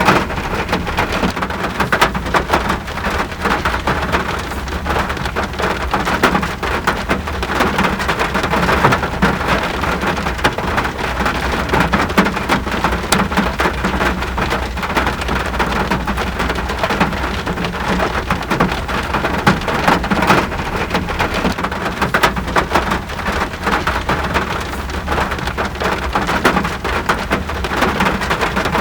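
Steady rain falling on surfaces: a dense, even patter of many drops with fine individual clicks, and a steady low rumble underneath.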